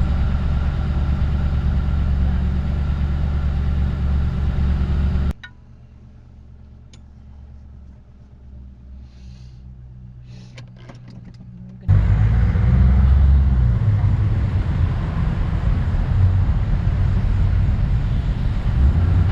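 Ford Crown Victoria Police Interceptor's V8 engine and road noise while driving, a steady low rumble. About five seconds in it drops suddenly to a faint hum with a few clicks, and about seven seconds later it comes back just as suddenly at full level.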